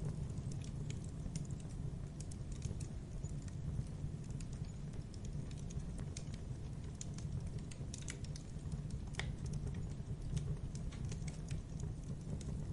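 Wood bonfire crackling: irregular sharp pops and snaps over a steady low rumble of burning, with one stronger pop about nine seconds in.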